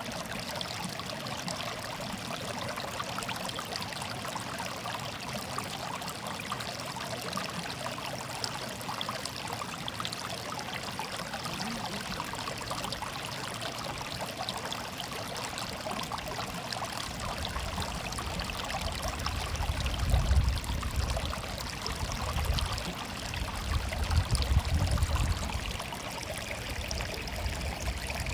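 Stream of water murmuring and trickling, steady and even. In the second half, low rumbles come and go beneath it.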